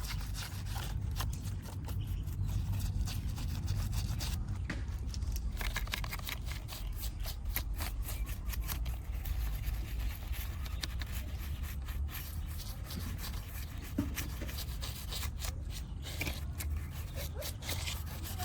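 Repeated scraping and rubbing strokes on a mud-covered diecast model car, over a steady low rumble.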